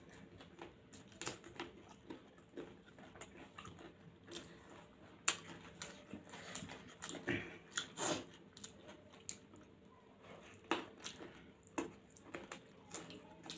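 Close-miked eating sounds of two people chewing soft, oily homemade noodles eaten by hand: wet chewing with irregular, sharp mouth clicks and smacks.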